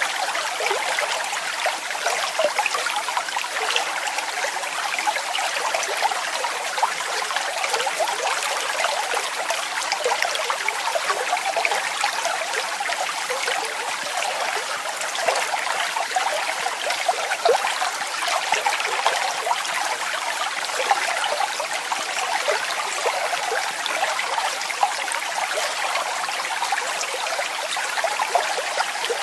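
Waterfall: water splashing and trickling steadily, with little deep rumble.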